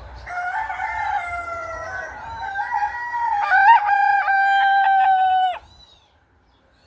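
Rooster crowing: one long, loud crow of about five seconds that cuts off sharply.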